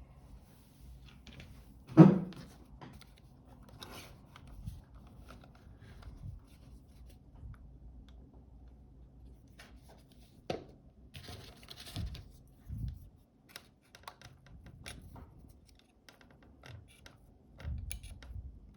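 Small handling noises of a tool and camera parts: scattered clicks, taps and scrapes, with one sharp knock about two seconds in and a short scratchy rasp around eleven seconds in.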